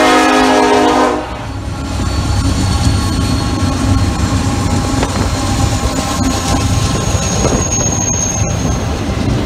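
Diesel freight locomotive's air horn sounding and cutting off about a second in, then the locomotive consist passing close by: diesel engines running and steel wheels rumbling and clattering over the rails.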